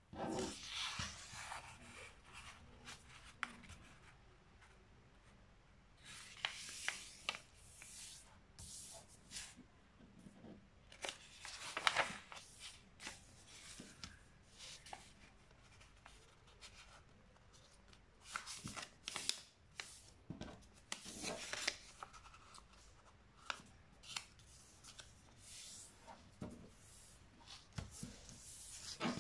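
A sheet of paper being folded and creased by hand into a paper airplane: irregular rustles, crinkles and swishes with the odd sharp crackle.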